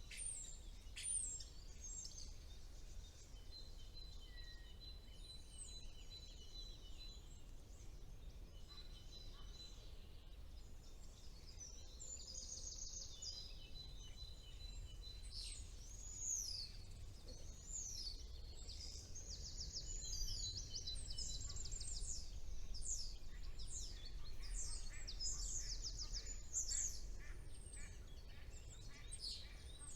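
Songbirds singing in spring woodland: whistled phrases and quick, high repeated trills, sparse at first and busier and louder in the second half, over a steady low rumble.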